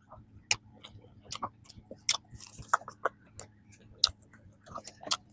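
Close-up chewing of a flaky strawberry danish: many small irregular crisp crackles and wet clicks as the pastry layers are chewed.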